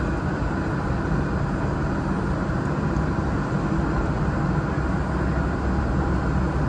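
Jet aircraft engines running, a steady low rumble.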